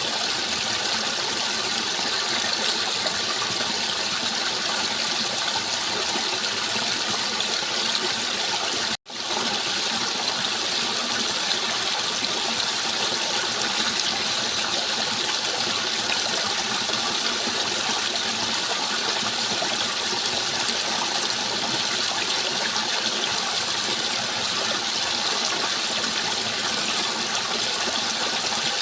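Steady rushing flow of water, an even hiss without a beat or pattern, that cuts out for an instant about nine seconds in and comes straight back.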